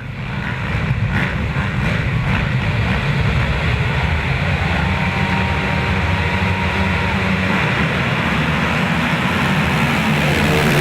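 A pack of motocross bikes running at full throttle together, a loud steady mix of many engines.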